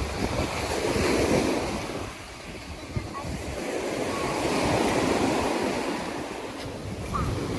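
Sea waves breaking on a sandy beach, swelling and falling back twice, with wind buffeting the microphone as a low rumble.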